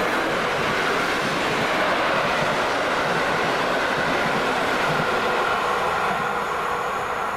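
Train passing along the line: a steady rush of wheels on rail with thin high tones that slowly fall in pitch, easing off near the end.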